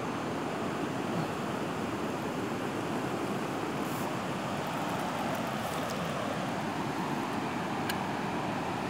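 Steady rushing noise with no clear source, broken by a few faint clicks.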